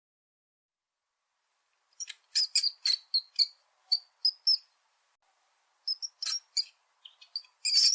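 A small animal's short, high-pitched chirps or squeaks, about a dozen in two quick irregular runs after a couple of seconds of silence, the loudest near the end.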